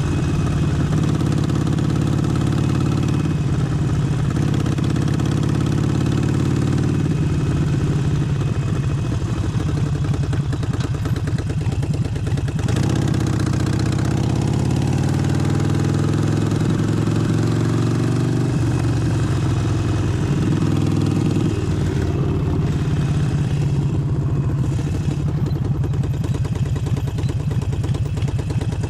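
Harley-Davidson Forty-Eight's 1200 cc air-cooled V-twin running, its pitch rising several times as the throttle is opened and easing back in between.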